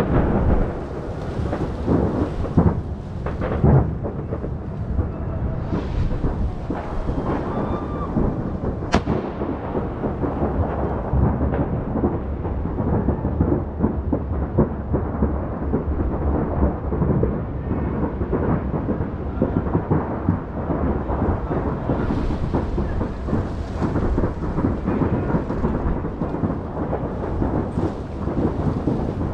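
Fireworks display: a dense, continuous barrage of bangs and crackles merging into a steady rumble, with one sharp crack about nine seconds in.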